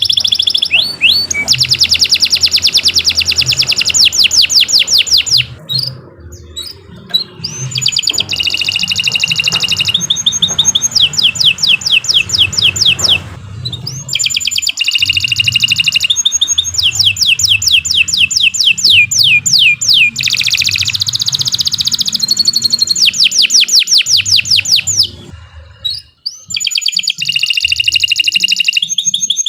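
Domestic canary singing long runs of rapid trills, each roll a fast train of repeated high notes. The song breaks briefly about six seconds in and again near the end.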